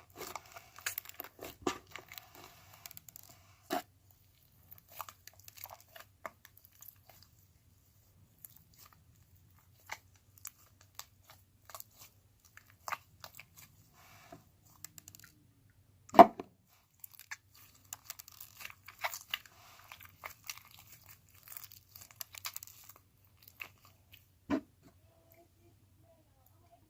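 Hardened slime putty being worked by hand, giving scattered crunching, crackling and crinkling, with two louder knocks, one past the middle and one near the end.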